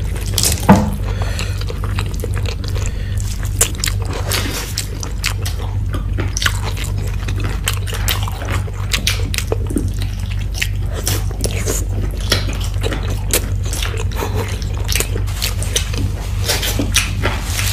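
Close-miked mukbang eating sounds: wet chewing, biting and lip smacks from mouthfuls of chicken and rice eaten by hand, a quick run of sharp clicks, over a steady low hum.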